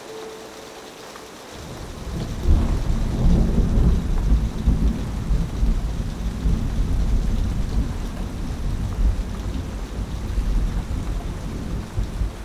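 Rain falling steadily on a rusty roof, with a long rumble of thunder that starts about two seconds in, is loudest soon after and slowly dies away.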